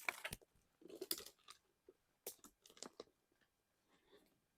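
Faint, scattered crunching and crackling of dry forest-floor litter, a dozen or so short snaps over about three seconds, then near silence.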